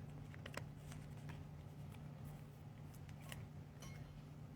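Trading cards being handled, making a few faint scattered clicks over a low steady hum.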